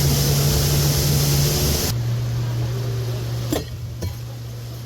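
Boat motor running with a steady hum under loud rushing water and wind noise; about two seconds in the sound cuts abruptly to a quieter, slightly lower motor hum, with two sharp knocks about half a second apart.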